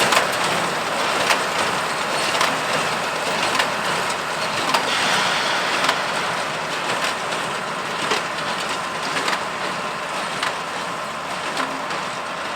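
Allis-Chalmers 200 tractor's turbocharged six-cylinder diesel running steadily under load while baling hay, mixed with the clatter of a New Holland 273 square baler. A sharp knock repeats about once a second.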